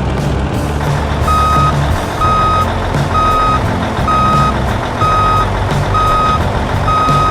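A heavy vehicle's reversing alarm beeping about once a second, seven single-pitch beeps starting about a second in, over the steady low running of its engine.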